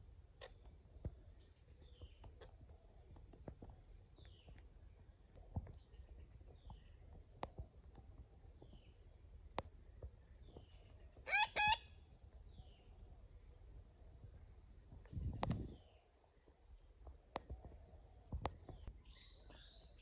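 Forest ambience: a steady high-pitched whine that stops near the end, faint chirps of small birds and scattered clicks, with two loud, shrill bird calls about halfway through and a low thump a few seconds later.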